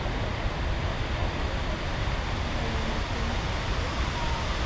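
Waterfall pouring steadily: South Falls' constant rushing water noise, even and unbroken, heaviest in the low end.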